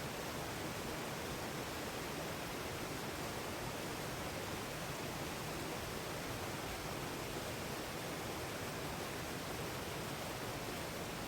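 Steady, even rush of flowing water from a waterfall or stream.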